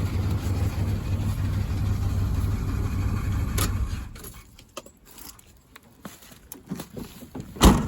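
Pickup truck engine idling steadily after a cold start, stopping about four seconds in just after a click. Scattered clicks follow, then a loud thump near the end.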